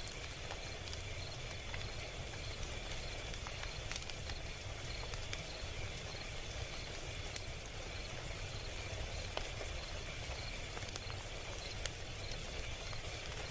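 Log fire crackling: scattered sharp pops and snaps over a steady low hiss and rumble, with a faint, evenly pulsing high-pitched sound in the background.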